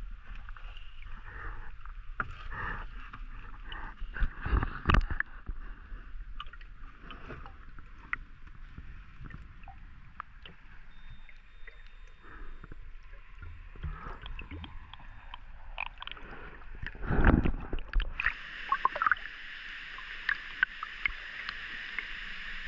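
Muffled sound of a camera underwater in a waterfall plunge pool: bubbling and scattered clicks, with a few heavy knocks about five seconds in and again around seventeen seconds. About eighteen seconds in, the sound changes to a brighter, steady rush of water.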